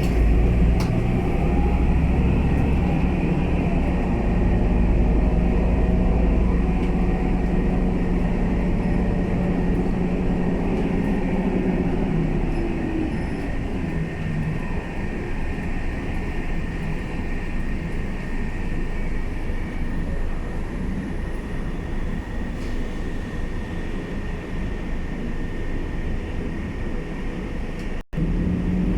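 Scania K320UA bus's diesel engine running under way, its note falling about twelve seconds in as it eases off. After that a steady low road rumble takes over, with a faint high steady whine throughout and a brief cut in the sound near the end.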